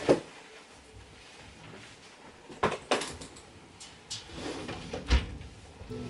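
A few sharp knocks and clunks of things being handled, about four in all, with quieter shuffling between them. The loudest come right at the start and about five seconds in.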